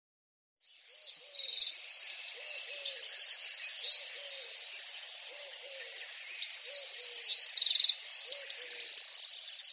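Several birds singing: a varied run of high chirps, whistled notes and quick rattling trills, with a lower short call repeating about once a second underneath. It starts under a second in.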